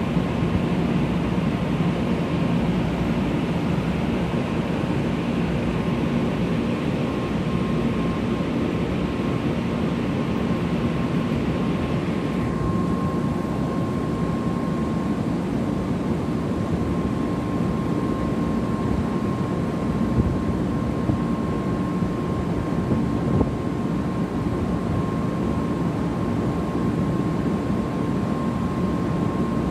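Steady mechanical hum and rush from a 500 series Shinkansen set standing at the platform with its on-board equipment running. A thin steady high tone comes in, and about twelve seconds in the upper hiss cuts off suddenly, as if one blower stopped. There is no pull-away whine.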